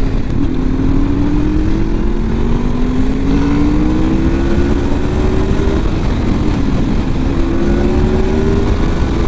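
Honda VFR's V4 engine pulling under acceleration, its pitch climbing and then dropping at gear changes about three times, over a steady low rush of wind noise.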